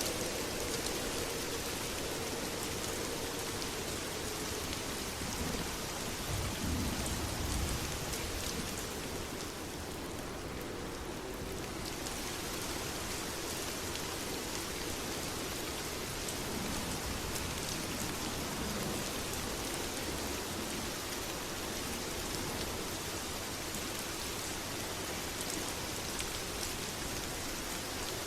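Steady heavy rain falling in a dense, even hiss, with a low rumble swelling briefly about six seconds in.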